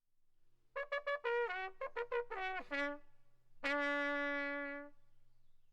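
A short trumpet tune: a quick run of notes, several sliding downward, then one long held low note.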